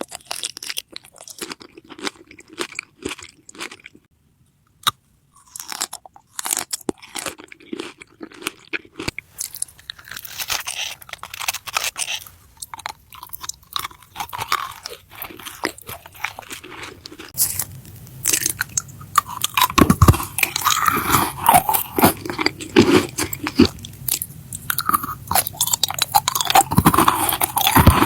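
A person biting and chewing crunchy food close to the microphone, with repeated crisp crunches and mouth sounds. There is a brief gap about four seconds in, and the eating becomes denser and louder in the second half.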